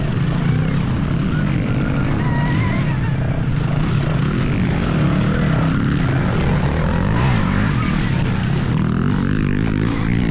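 Stark Varg electric motocross bike being ridden on a dirt track: a thin electric motor whine gliding up and down with the throttle over steady heavy wind rush on the microphone.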